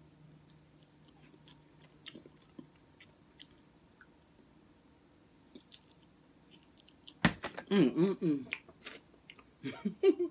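A person chewing a mouthful of beef and bean burrito close to the microphone: faint, scattered wet mouth clicks. About seven seconds in, a loud wordless voice with sliding pitch breaks in, and it comes again briefly near the end.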